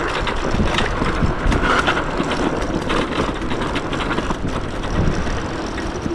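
Yume X11 electric scooter riding over a dirt trail: steady wind and tyre noise with many small knocks and rattles from the bumps.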